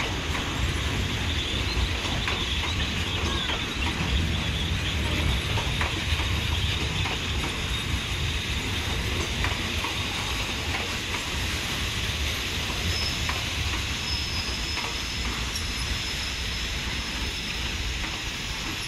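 A diesel train of Thailand's SRT railway running on the track: a steady rumble with a few scattered clicks, growing slightly fainter toward the end.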